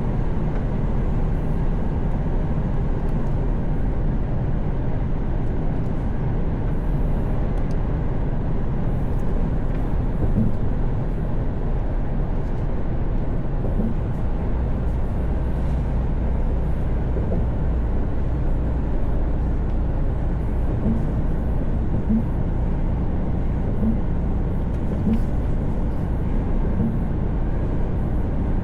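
Mercedes-Benz Actros truck cruising at steady highway speed, its engine drone and tyre and road noise heard from inside the cab. The low drone grows a little stronger about halfway through.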